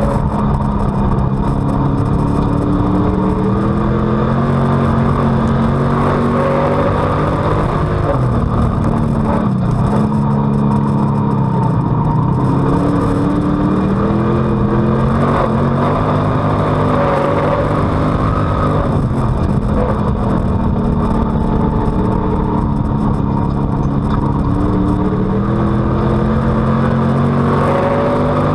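Street stock race car's V8 engine heard on board at racing speed, the pitch climbing as it accelerates and dropping back as it lifts, again and again through a run of laps, over steady loud noise.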